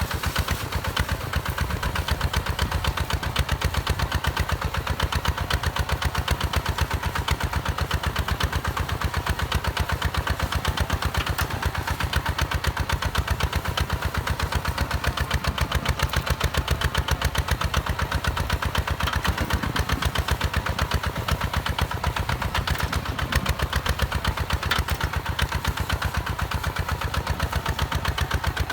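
Hinota HG Gold 155 DI tractor's direct-injection diesel engine running at a steady speed, a fast, even chugging that holds unchanged.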